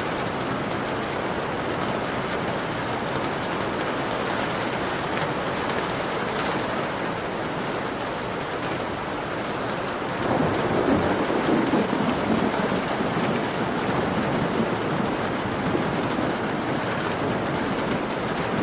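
Steady rain falling on a window. About halfway through, a low rumble of thunder sets in over the rain and rolls on for several seconds before easing.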